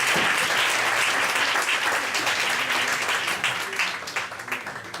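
Audience applauding loudly, the clapping thinning and fading away near the end.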